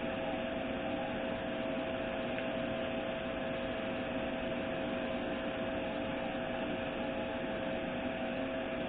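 Steady mechanical hum: two steady tones over an even hiss, with no breaks or clicks.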